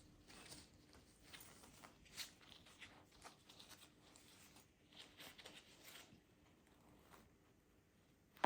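Faint, scattered light clicks and rustles in a quiet room.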